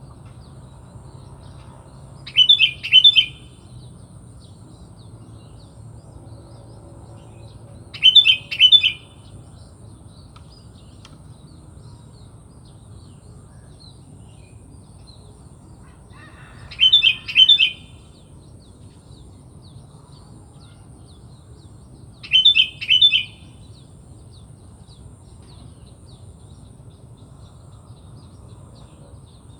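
Sooty-headed bulbul (kutilang) calling four times, each call a brief pair of quick, bright note clusters, with several seconds of pause between calls.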